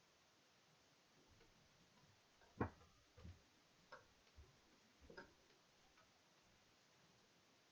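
Near silence broken by about five light knocks and clicks a second or so apart, the loudest about two and a half seconds in.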